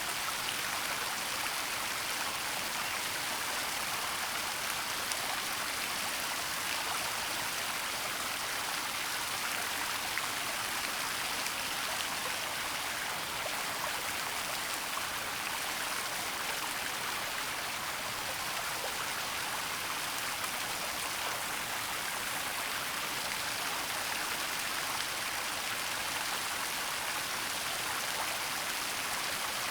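Waterfall rushing steadily, a continuous even hiss of falling water with no breaks.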